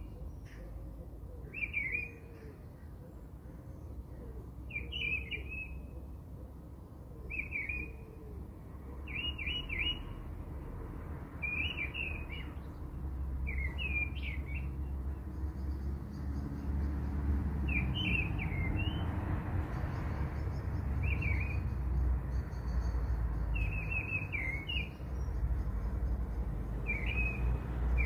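A bird chirping, a short call repeated every two to three seconds, over a low rumbling noise that grows louder about halfway through.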